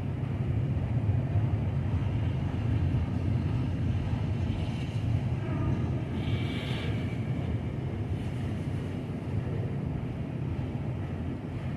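Freight train cars rolling slowly past, a steady low rumble of wheels on the rails, with a brief higher hiss or squeal about six seconds in.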